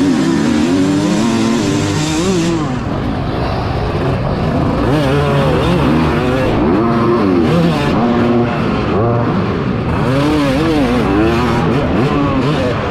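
Several dirt bike engines racing together, revving up and down over and over with throttle changes and gear shifts, their pitches overlapping.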